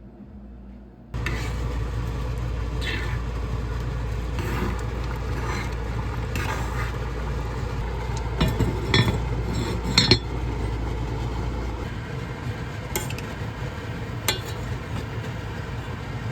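Kitchen utensils and dishes clinking over a steady rushing noise that starts suddenly about a second in, with the sharpest clinks about eight to ten seconds in.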